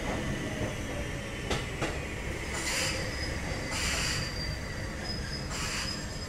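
Kotoden 1070 series electric train running, heard from inside the car: a steady rumble from the running gear, with a pair of sharp clicks about a second and a half in as the wheels pass a rail joint. Short hissy patches with a faint high squeal come back every second or so.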